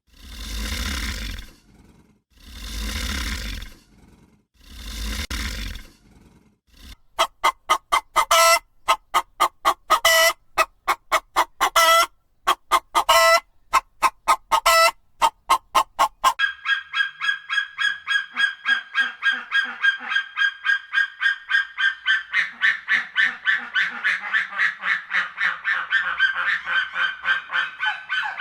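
Geese honking: short sharp honks in quick runs, then, a little past halfway, a steady fast stream of calls. It opens with four long breathy rushes about two seconds apart.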